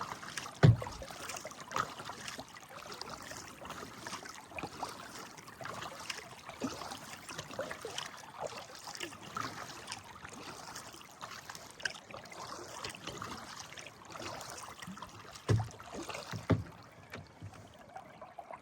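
River water trickling and lapping around a kayak, with many small splashes. There are a few dull knocks, one about a second in and two near the end.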